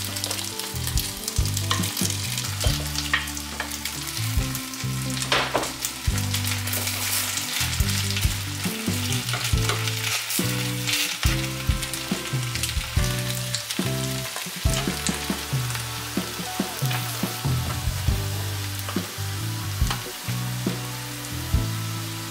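Shredded potato pancake batter frying in plenty of cooking oil in a small rectangular pan: a steady sizzle scattered with sharp crackles and pops.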